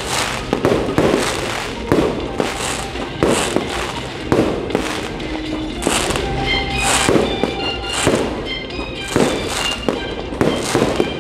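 Aerial fireworks bursting overhead in a rapid string of bangs, about one a second, over the music soundtrack of the light-and-sound show.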